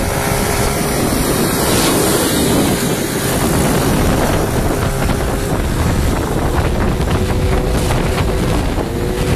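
Heavy wind buffeting the microphone, with a small motorbike engine running steadily underneath.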